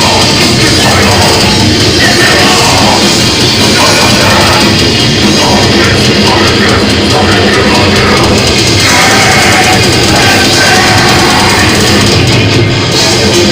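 Loud heavy metal played on distorted electric guitars and a drum kit, running without a break.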